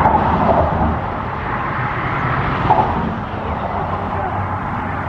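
Road traffic: a steady rush of passing car noise, with a brief louder bump a little past halfway.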